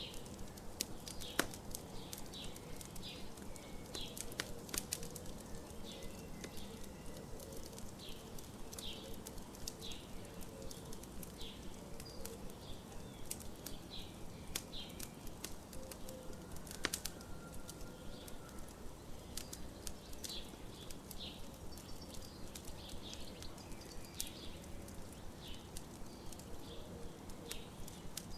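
Wood campfire crackling with scattered sharp pops, two of them louder about a second and a half in and about seventeen seconds in, while small birds chirp in short repeated calls about once or twice a second.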